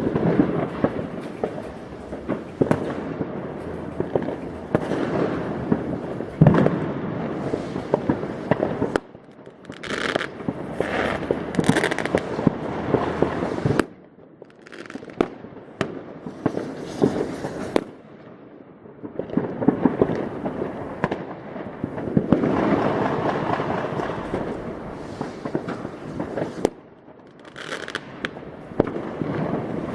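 New Year's Eve fireworks: a dense, continuous barrage of overlapping bangs and crackling, with a few short quieter stretches in between.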